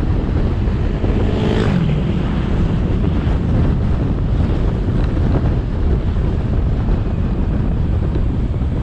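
Motorcycle riding noise: wind buffeting the action camera's microphone over the steady sound of the bike's engine and tyres on the road. A short pitched sound comes through about one and a half seconds in.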